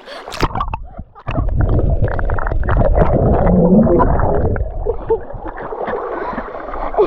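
Fast river current rushing close to the microphone: a deep, muffled churning that starts about a second in, is loudest for about three seconds, then eases off, with scattered knocks.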